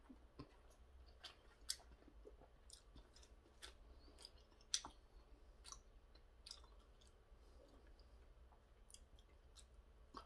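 Faint chewing of dumplings, with scattered light clicks and taps of a fork against a styrofoam takeout container, the sharpest about five seconds in.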